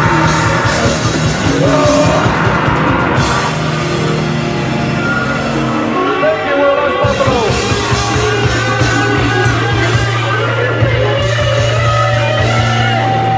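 Live rock band playing loud, with a singer and guitar; a low bass note is held through the second half.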